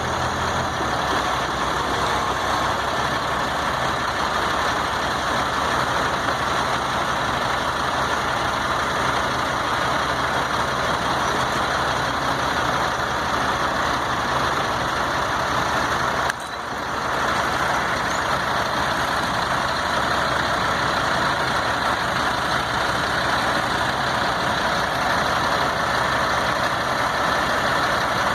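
Heavy diesel engine running steadily at idle, with a brief drop in level about sixteen seconds in.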